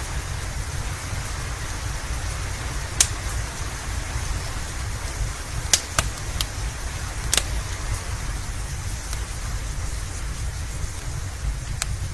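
Steady rain with a low rumble under it, and a wood fire in a fireplace crackling. A few sharp pops stand out, the loudest about three seconds in and a cluster around six to seven and a half seconds.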